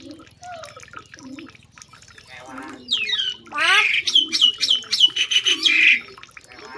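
Animal calls: sharp rising squeals, then a quick run of repeated high notes, about five a second, from about four to six seconds in, over low soft calls.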